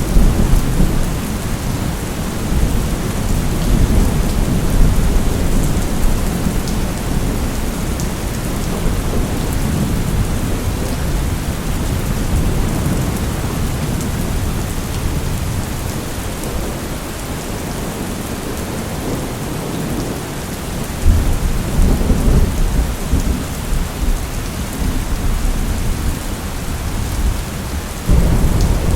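Steady rain with thunder rumbling low underneath. A new rumble of thunder swells about three quarters of the way through, and another starts abruptly near the end.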